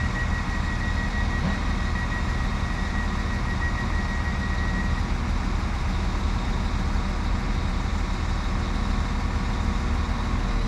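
Diesel engines of a Class 195 diesel multiple unit running steadily with a low drone. A high, rapid beeping sounds over it for about the first five seconds.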